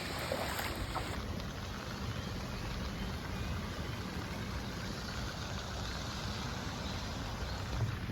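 Heavy downpour: a steady hiss of rain and running water, with a few short knocks in the first second.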